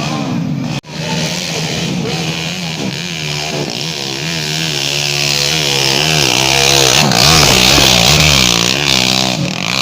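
Dirt-bike engine revving up and down again and again, with a loud rushing noise building in the middle, after a brief cut in the sound just under a second in.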